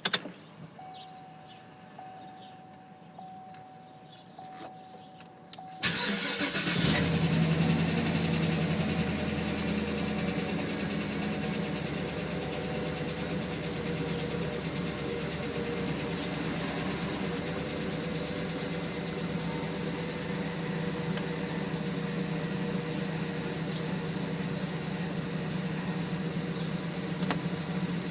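The 6.0-litre V8 of a 2003 Chevrolet Silverado 2500 HD is cold-started after sitting overnight in freezing weather. About six seconds in it cranks briefly and fires. It runs loudest for the first few seconds, then settles into a steady cold idle.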